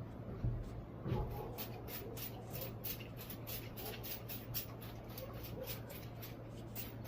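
Trigger spray bottle misting veneer softener onto wood veneer sheets: quick, short hissing sprays, about three to four a second, starting a second or so in.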